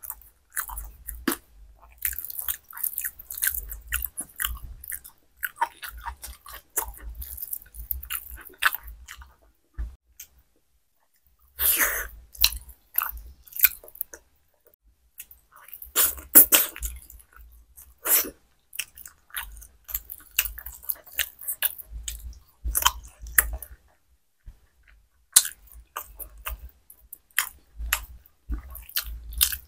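Close-miked chewing of soft khichuri (rice and lentils) eaten by hand: wet lip smacks and mouth clicks in irregular runs, broken by a few short pauses.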